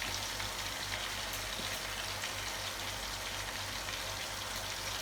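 Steady frying sizzle with a few faint crackles, over a low steady hum.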